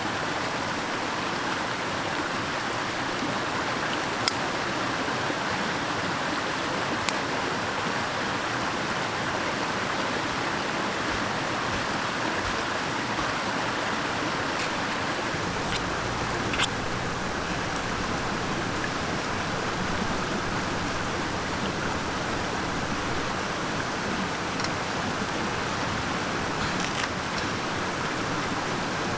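Mountain stream rushing steadily over rocks, with a few sharp clicks and a brief low rumble about halfway through.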